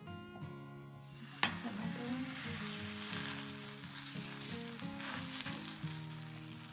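Raw chapati dough dropped onto a hot pan: a slap about a second and a half in, then a steady sizzle as the dough starts to cook, over background music.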